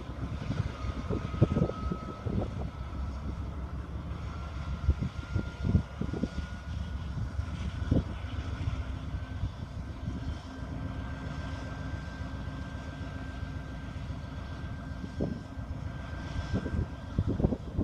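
Loaded grain train of covered hopper cars rolling past: a steady rumble with irregular clunks and clicks as the wheels cross rail joints, and a thin tone that slowly rises in pitch.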